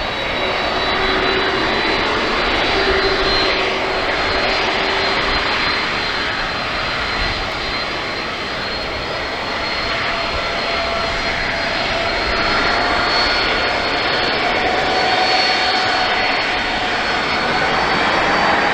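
Boeing 767-300F freighter's twin turbofan engines running loudly: a steady jet roar with whining tones that rise slowly in pitch through the second half.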